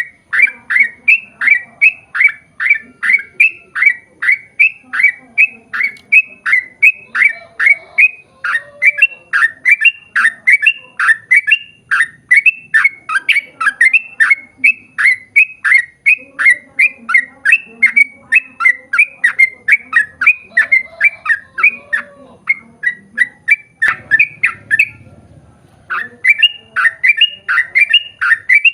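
Yellow-vented bulbul (trucukan) singing a long rapid run of short, sharp repeated notes, about three a second, with one brief pause near the end.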